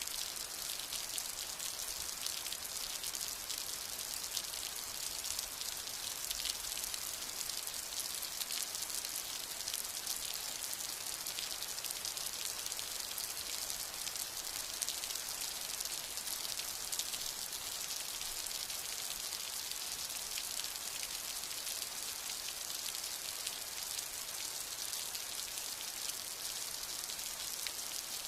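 Steady rain falling: an even hiss made of many small, close drop hits, with no thunder.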